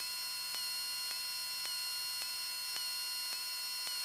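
Electrical noise on the aircraft's intercom and radio audio feed between transmissions: a steady high whine made of several tones, with faint regular ticks about twice a second.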